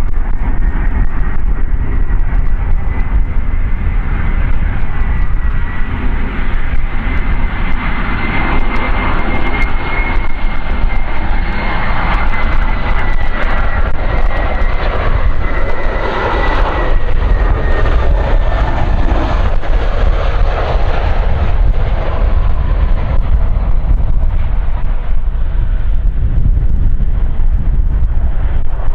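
Jet aircraft engines running with a steady high whine that rises slightly and then falls away, over a deep, continuous rumble. The noise swells in the middle and eases toward the end.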